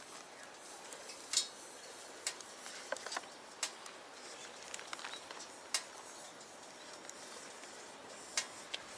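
Wood fire crackling in a small box stove: irregular sharp pops and snaps over a faint steady hiss.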